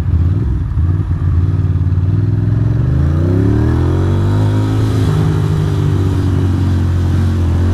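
Ducati Monster's V-twin engine accelerating, its pitch rising over the first few seconds, then holding steady as the motorcycle cruises.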